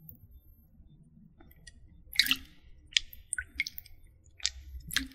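A series of about six short, sharp wet squishing and dripping sounds, starting about two seconds in, from close-miked water play.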